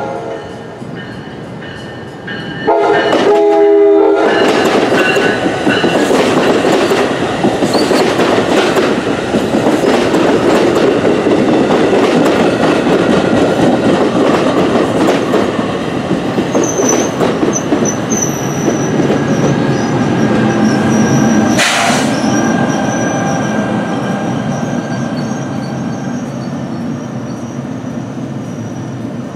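NJ Transit Multilevel push-pull train with an ALP-46A electric locomotive sounding one short horn blast about three seconds in, then passing close by with a heavy rumble and a run of clicks from the wheels over the rail joints. A thin high squeal comes in past the middle, and the sound eases off as the locomotive pulls away.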